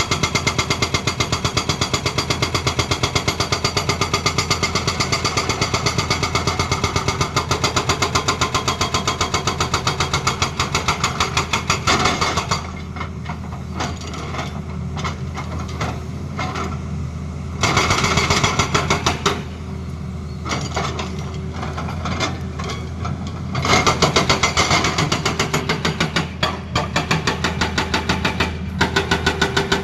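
Excavator-mounted hydraulic breaker hammering with rapid blows in three spells: a long run, a short burst in the middle, and again from about three-quarters through. Between spells the excavator's diesel engine keeps running steadily.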